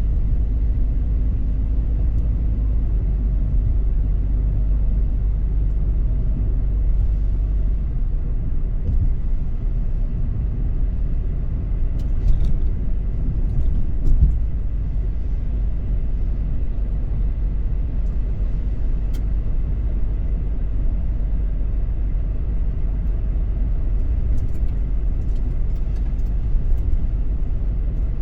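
Car driving: a steady low rumble of road and engine noise, with a few light knocks about twelve and fourteen seconds in.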